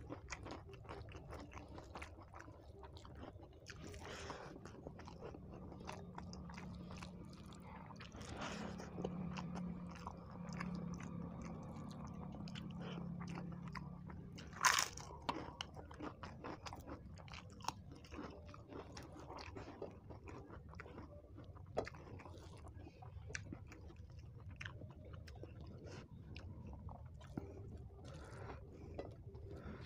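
Close-up mouth sounds of eating by hand: chewing of rice with many small crunches and clicks. About halfway through, a bite into crisp papad gives one loud, sharp crunch.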